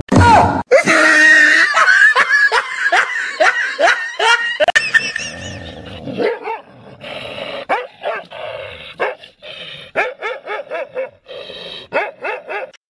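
A dog barking and yipping in quick repeated calls, which later come more spaced out.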